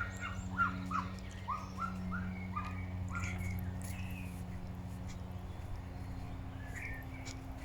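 A run of short, quick animal calls, about three a second, that thins out after three or four seconds, with a few more near the end, over a steady low hum.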